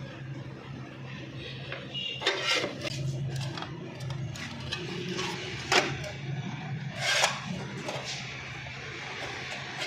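Car body repair work: a few sharp knocks and short scrapes of tools on metal over a steady low hum.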